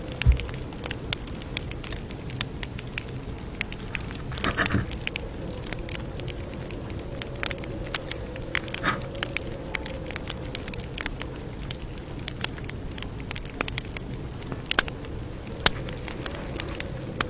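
Campfire crackling, with irregular sharp pops and snaps over a steady low rumble of burning. There is a brief louder flare of sound about four and a half seconds in and again about nine seconds in.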